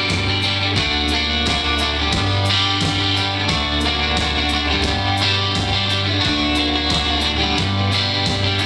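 Live rock band playing an instrumental intro: electric guitar, bass and drums with a steady beat.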